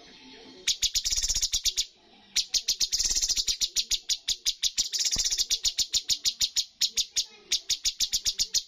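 Cucak cungkok songbird calling: rapid runs of sharp, high, evenly repeated notes, about seven or eight a second, broken by a short pause about two seconds in.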